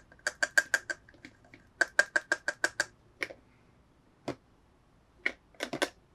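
Sharp clicking taps on hard plastic from hands working the toy and its packaging. There are two quick, even runs of about seven taps a second, then a few scattered single clicks and a short cluster near the end.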